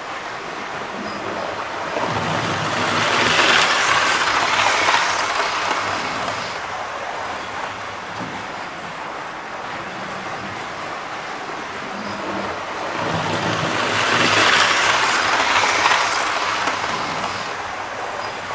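OO gauge model train running round the layout, its wheels and motor rumbling on the track. The sound swells twice, about ten seconds apart, as the train passes close by.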